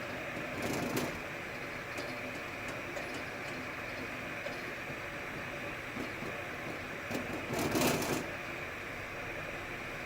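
Budgerigar tapping its beak in quick 'dadadada' drumroll runs, twice: a short run about half a second in and a longer one about seven seconds in, with a few faint single taps between them.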